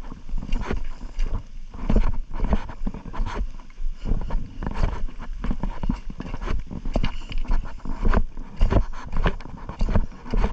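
Strong wind buffeting the microphone in a rainstorm, a steady rumble beneath a rapid, irregular run of knocks and taps.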